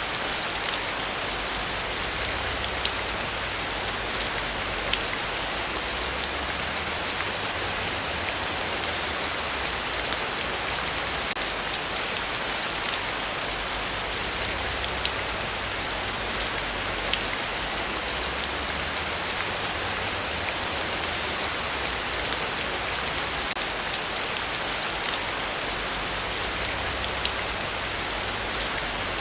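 Heavy rain falling steadily in a forest: a dense, even hiss of rain with many fine drop ticks.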